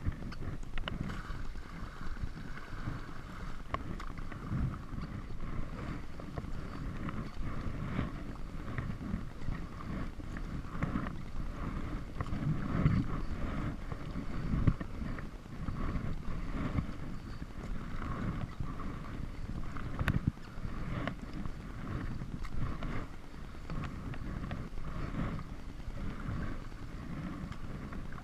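Wind buffeting the microphone in an uneven low rumble, over the splash and trickle of water around a kayak being paddled, with occasional small knocks.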